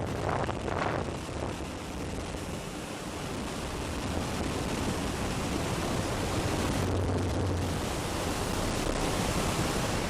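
Steady rushing air noise with a low hum, from a Beechcraft King Air turboprop airplane in flight. The hum swells briefly about seven seconds in.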